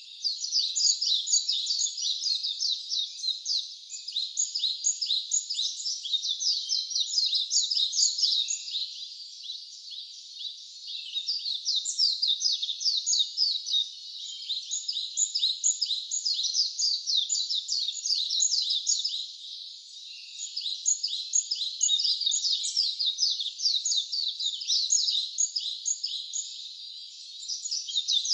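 Songbirds singing: rapid, high-pitched chirping trills strung into long phrases with short pauses between them.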